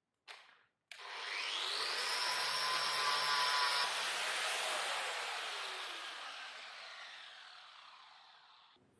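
An electric power tool's motor spins up with a rising whine, runs at full speed for about three seconds, then is switched off and coasts down slowly, its pitch and level falling away over about five seconds.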